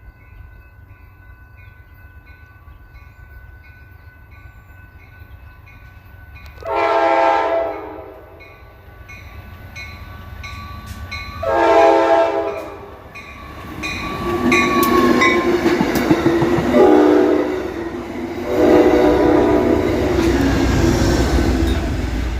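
Amtrak Cascades passenger train approaching and sounding its horn: two long blasts a few seconds apart, then a run of shorter and longer blasts. The low rumble of the train grows louder toward the end.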